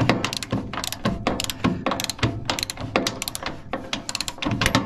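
Ratchet wrench clicking in quick, uneven strokes as a nut is turned, slackening a spring's tension.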